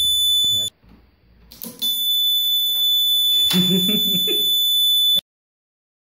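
Homemade door alarm's piezo buzzer, run off a 9 V battery, sounding a steady high-pitched tone. It stops less than a second in, starts again about a second later with a knock, and cuts off abruptly near the end, with a second knock partway through.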